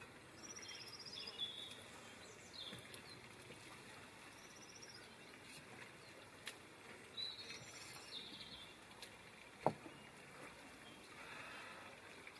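Faint outdoor background with small birds giving short, fast trilled chirps several times. One sharp knock, the loudest sound, comes a little under ten seconds in.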